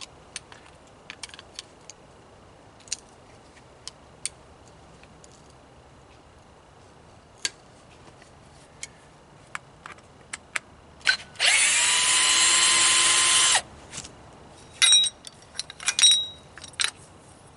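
Power drill runs for about two seconds, its motor whine rising and then holding steady, among light taps and clicks from handling tools and parts. Sharp metallic clinks of loose parts follow near the end.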